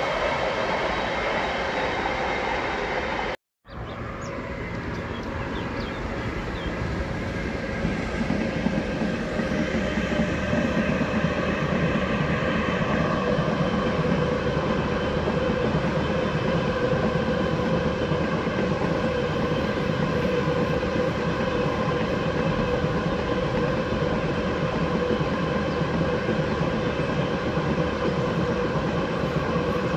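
A train running past on the railway line, a continuous rumble of wheels on rails with a steady whine over it. The sound cuts out completely for a moment about three and a half seconds in, then comes back and grows louder over the next few seconds before running on steadily.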